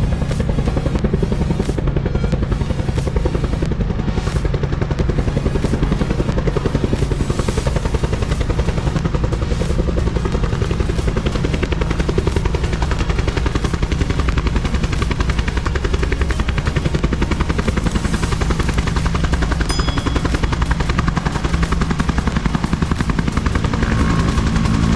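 Small propeller plane's piston engine running steadily close by, its propeller giving a rapid, even beat.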